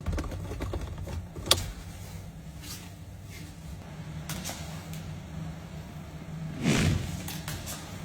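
A car making a steady low hum, with a sharp click about a second and a half in and a louder, brief rushing sound near the end.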